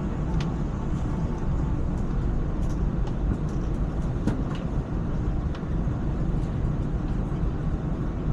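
ETS electric train running noise: a steady low rumble with a few faint scattered clicks.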